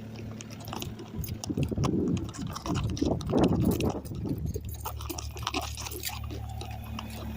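Kubota KX057-4 excavator's diesel engine idling with a steady hum. Close handling noise rides over it: scattered clicks and a louder rustling from about one and a half to four seconds in.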